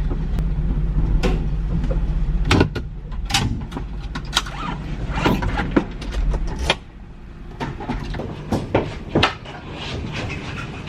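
A vehicle engine idling steadily, which cuts off about seven seconds in, with scattered knocks and clacks throughout.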